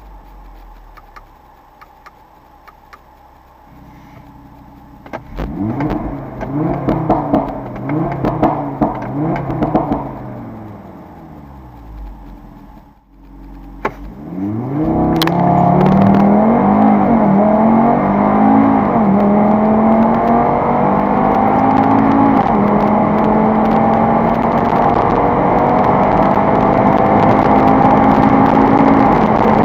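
Audi RS3 Sportback's turbocharged 2.5-litre five-cylinder engine, revved in short rising-and-falling blips about five seconds in. From about halfway in it pulls hard under full acceleration, the pitch climbing and dropping back at each gear change, then rising slowly in one long pull.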